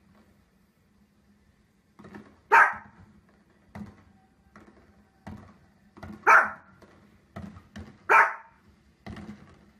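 A small dog barks three loud, sharp barks, the last two close together. Fainter thuds and pops from fireworks on a television come between the barks.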